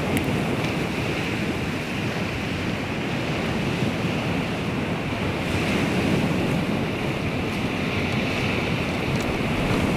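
Baltic Sea waves washing ashore in steady surf, with wind noise on the microphone.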